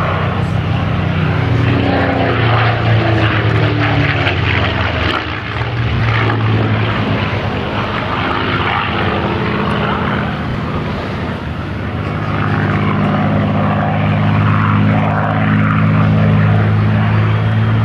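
Supermarine Spitfire's V12 piston engine running at display power, a steady deep drone whose pitch glides as the fighter passes. It fades briefly about five seconds in and again near eleven seconds before swelling back.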